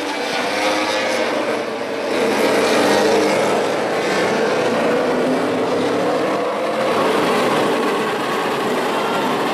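MotoGP racing motorcycles' 1000 cc four-cylinder engines running on track, their pitch rising and falling as they rev and change gear.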